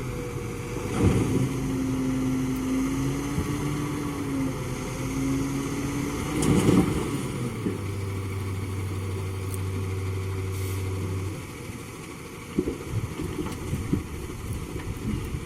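Truck engine running with shifts in pitch, with two loud bursts in the first half. The engine drops away at about 11 seconds, leaving a few scattered knocks.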